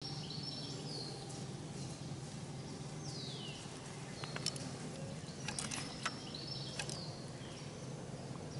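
Songbirds singing in woodland, with several drawn-out whistled phrases that fall in pitch. Several sharp clicks come in the middle, over a faint steady low hum.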